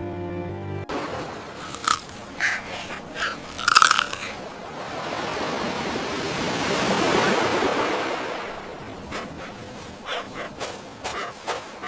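Crisp crunching bites of food and chewing, in separate bursts. In the middle, a broad rush of noise swells and fades over a few seconds.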